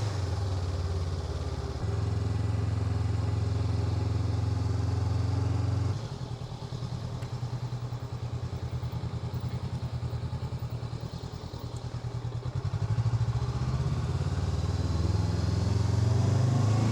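Honda NX500 parallel-twin engine running under steady throttle while riding, with a step in the engine note about two seconds in. About six seconds in the throttle closes and the engine runs slower and quieter, its separate pulses audible, before it picks up again and rises in pitch near the end.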